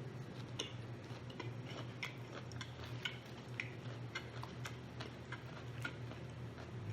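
Close-miked eating of rotisserie chicken: many small, irregular clicks of chewing and pulling meat, over a steady low hum.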